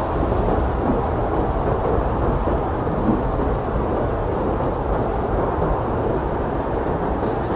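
Blizzard wind blowing hard and steadily: a dense, low, rumbling rush with no distinct gusts or breaks.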